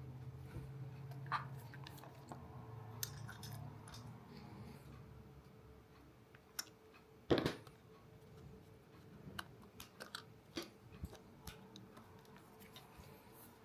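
Scattered small clicks and taps of equipment being handled, with one louder knock about seven seconds in, over a faint steady hum.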